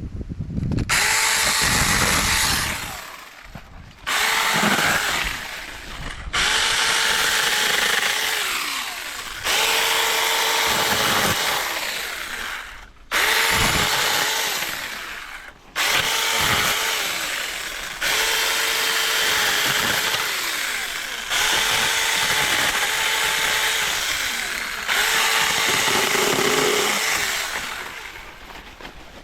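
Supstable 6-inch cordless mini chainsaw's electric motor and chain running in about nine short bursts, each triggered on and let off. The motor's whine sags in pitch as the chain bites into sapling wood and picks up again as it cuts through.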